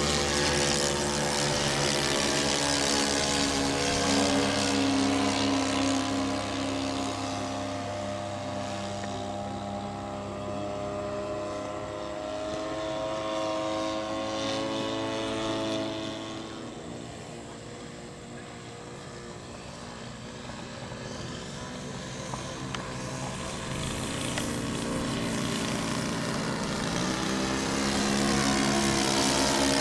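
Radio-control model airplane engine and propeller droning in flight, its pitch sliding as it passes; it fades as the plane moves away in the middle and grows louder again near the end as it comes back.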